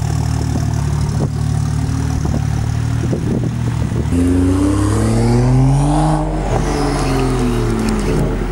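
BMW M235i Racing's turbocharged straight-six engine running at low revs, then revving up about four seconds in and dropping back down near the end.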